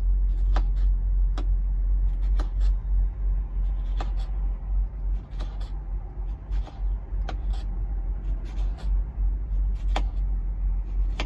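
Knife tapping sharply on a cutting board at irregular intervals as a tomato is sliced thinly, over a steady low engine rumble.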